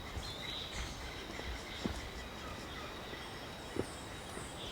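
Rainforest ambience: a steady high-pitched insect drone, with short bird chirps in the latter half and two soft knocks.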